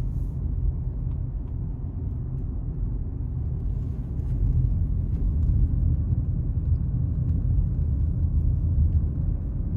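Low, steady rumble of a car driving, heard from inside the cabin: tyre and engine noise on the road, growing slightly louder about four seconds in.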